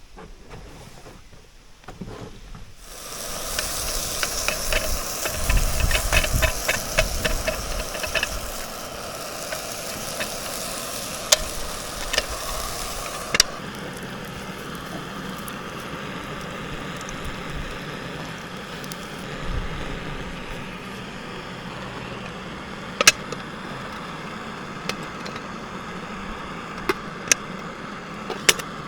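Pancake batter with bacon sizzling in a frying pan on a camping stove, a steady hiss that starts about three seconds in. A few seconds later comes a run of quick rhythmic strokes, and later there are a few sharp clicks of a utensil against the pan.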